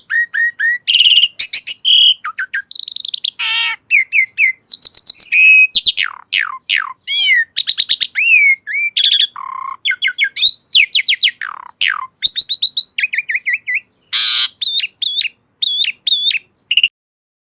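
Asian pied starling (jalak suren) singing a long, varied song of clear whistles, rising and falling glides and harsh noisy notes, which stops near the end.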